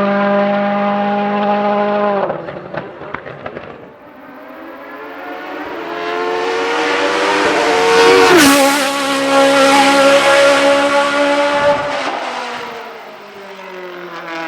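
A rally car engine held at steady high revs, then cut off abruptly with a scatter of crackles and pops. Then an Osella FA30 sports prototype's V8 comes in at full throttle, rising in pitch and loudness. It passes by about halfway through with a sudden drop in pitch, and fades toward the end.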